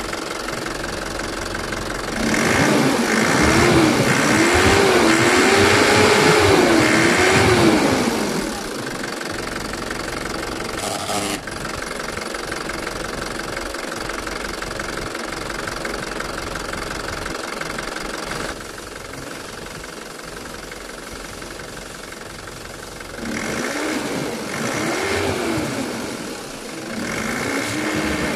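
Isuzu pickup engine running with its newly fitted fan clutch turning the cooling fan. The engine is revved in a string of quick blips, its speed rising and falling, about two seconds in, and again in a few shorter blips near the end.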